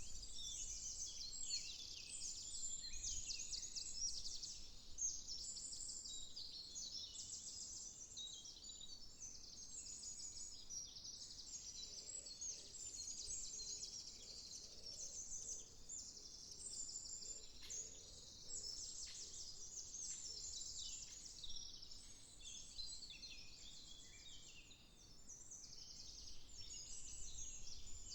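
Many woodland songbirds singing at once in a morning chorus: dense, overlapping high trills and chirps.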